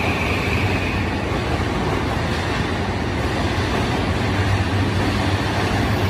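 Yokosuka/Sōbu Rapid Line electric commuter train running past along an underground platform: a steady rumble of wheels on rail with a low hum. A high steady tone fades out about a second in.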